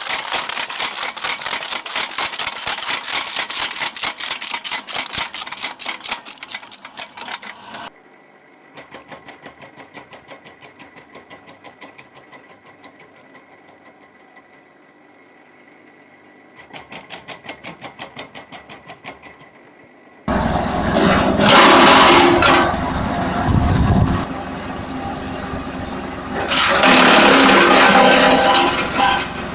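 Wood chipper running with a fast, even mechanical clatter. It drops abruptly to a quieter pulsing with a steady high whine, then about two-thirds of the way in it turns suddenly much louder and rougher, with two loud surges.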